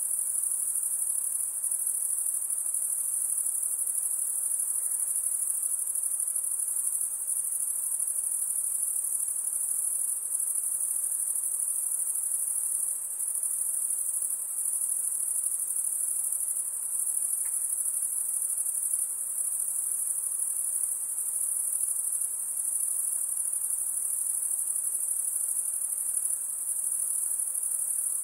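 High-pitched insect chorus: a dense, steady shrill drone with no breaks.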